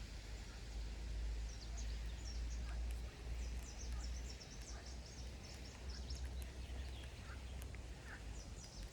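Wind buffeting the microphone as an uneven low rumble, with small birds chirping in short high notes in the background, most clearly from about a third of the way in and again near the end.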